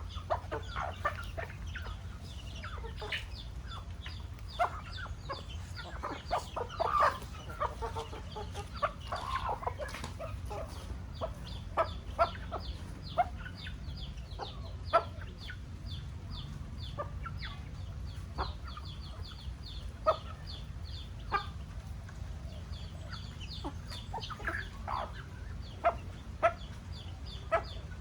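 Chickens clucking: short calls scattered throughout, with a busier run of clucking about six to ten seconds in, over a steady low rumble.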